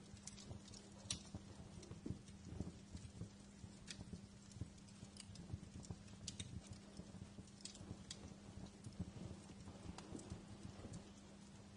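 Wood fire crackling, with irregular sharp pops and snaps over a low, steady hum.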